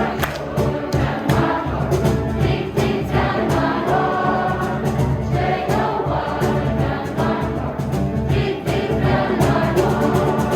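A choir of schoolchildren singing a Christian song together, with music playing along to a steady beat.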